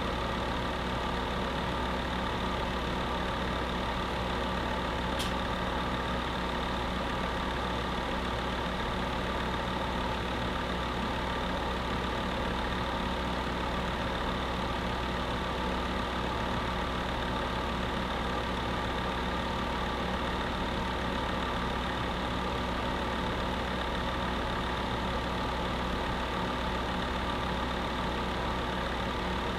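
Electric space heater running steadily: an even fan whirr with a constant hum beneath it. One faint tick about five seconds in.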